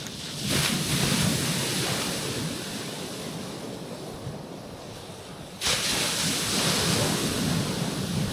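Small sea waves breaking and washing over a rocky shoreline. One wave swells in about half a second in and slowly eases off, and a second breaks suddenly about two-thirds of the way through.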